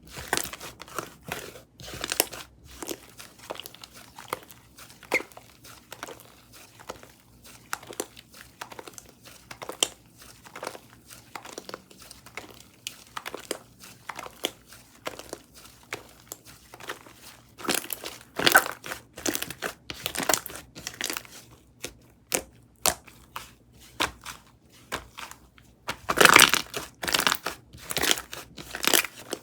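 Strawberry cookie whipped-cream slime being squished and pressed by hand, giving a steady run of small crackles and pops. Two louder spells of crackling come about two-thirds of the way through and again near the end.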